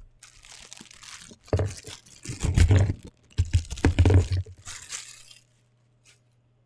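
Packaging being torn open and crinkled by hand, with heavy low bumps of handling close to the microphone, loudest in the middle.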